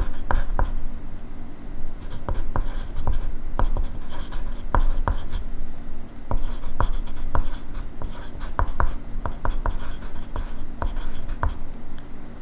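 Pencil writing on paper: continual scratching strokes broken by many sharp, irregular taps of the graphite tip.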